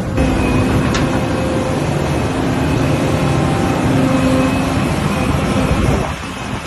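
Volvo excavator's diesel engine and machinery running steadily, with a whine that comes and goes; the level dips slightly near the end.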